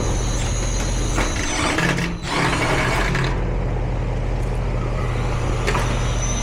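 Central air conditioner's outdoor unit running with a steady low hum. About two seconds in, the sound briefly dips and shifts as the compressor kicks in and out, a sign of an intermittent short.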